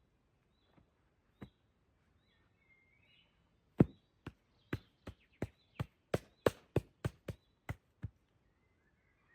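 A tool striking wood: about a dozen sharp knocks at roughly three a second, starting about four seconds in, with a few fainter knocks before them. Birds chirp now and then.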